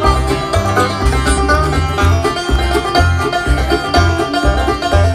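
Bluegrass band playing an instrumental intro at a quick tempo: a banjo picking rolls over guitar, with bass notes landing about twice a second.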